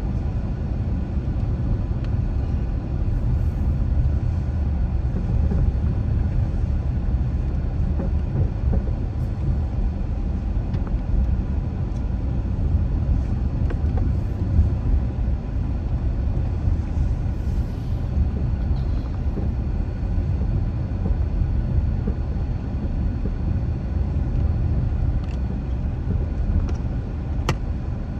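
Steady low rumble of a car driving, engine and tyre road noise, with a couple of sharp clicks near the end.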